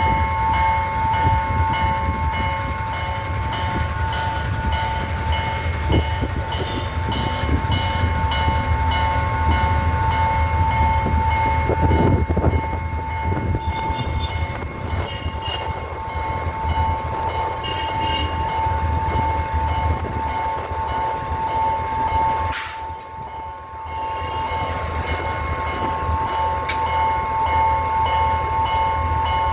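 A local train rumbling past while a steady, high ringing warning tone sounds throughout, with a faint repeating chime over it. The sound dips briefly about three-quarters of the way through.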